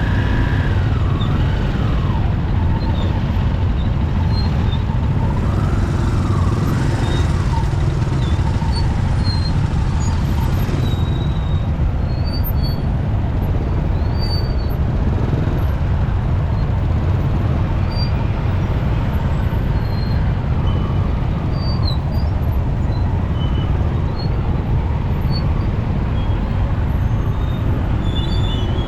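Steady rumble of a motorcycle riding in heavy city traffic, with engine and road noise. Over the first several seconds a siren wails up and down.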